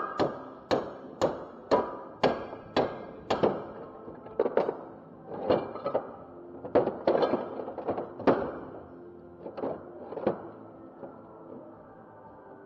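Sharp metal knocks and clunks from transmission parts being struck and handled, about two a second for the first few seconds, then irregular, dying out about two seconds before the end.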